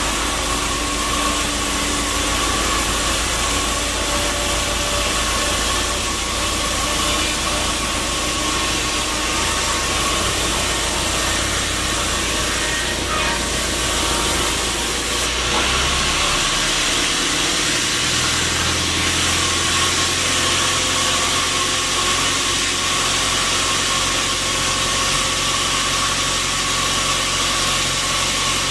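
Sawmill machinery running steadily: a constant mechanical hum with a thin steady whine over a broad hiss. About halfway through, the low hum drops and changes while the hiss gets brighter.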